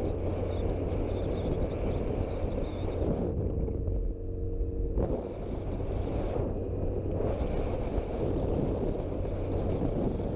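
Wind noise buffeting the microphone of a Suzuki GSX-R 1000 sport motorcycle at riding speed, with the engine running underneath. About four seconds in, the rush briefly eases and the engine's hum shows through.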